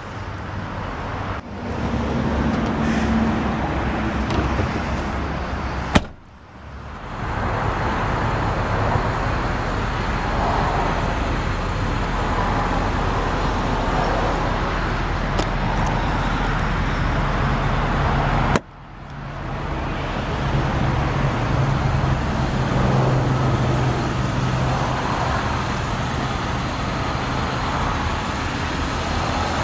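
Steady road-traffic and vehicle noise with a low hum. It drops out abruptly twice, about a fifth and about two-thirds of the way through, and builds back up each time.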